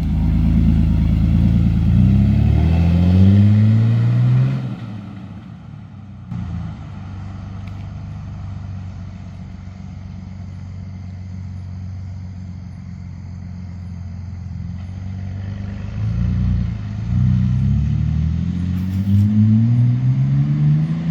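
2005 Jeep Wrangler LJ's 4.0 L inline-six running with its muffler removed, loud and raspy. It accelerates through the gears with the engine note rising in sweeps, then drops to a quieter steady drone for several seconds. About three-quarters of the way through it gets louder again with more rising revs.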